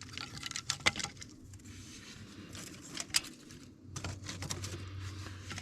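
Small dry sticks and twigs being handled and laid into a fire lay, with irregular light clicks and crackly rustles of wood knocking together.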